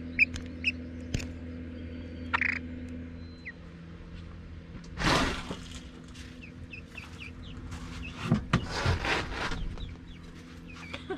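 Chickens clucking, with short high peeps near the start and louder calls about halfway through and again near the end, over a steady low hum.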